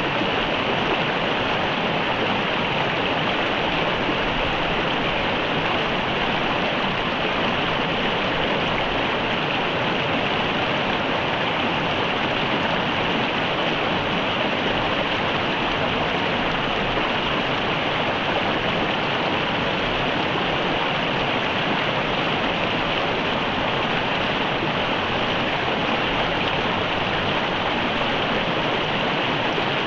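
Mountain river water running over rocks: a steady, even rushing and babbling.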